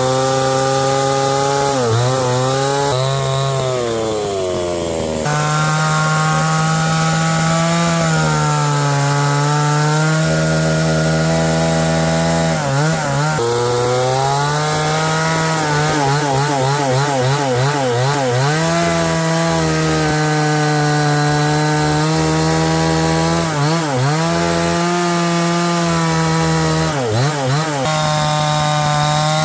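Chainsaw running at high revs, its pitch sagging and recovering several times as it cuts.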